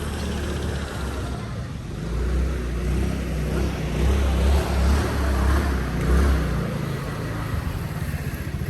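A motor vehicle's engine running close by, its low hum swelling for a few seconds in the middle and then easing off, as it would when a car or motorbike passes.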